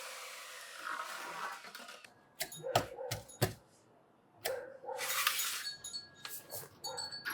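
Sawing or rubbing on wood tails off over the first two seconds. Then comes a run of sharp clinks and knocks, with the loudest pair about three seconds in.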